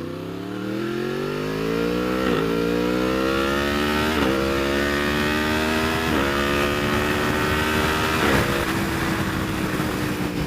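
Yamaha R1 sport bike's inline-four engine accelerating hard through the gears: the pitch climbs and drops sharply at each of four quick-shifter upshifts about two seconds apart, then holds steady near the end. Wind rushes over the microphone throughout.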